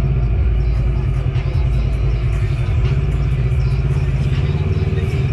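Off-road side-by-side UTV engine running steadily with a low, even drone while riding.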